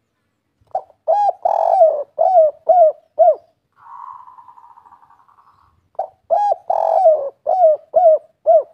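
Spotted dove (tekukur) singing its 'kuk 3' cooing song: two phrases of about seven quick coos each, the second starting about six seconds in. Between them is a quieter, rough, rattling trill.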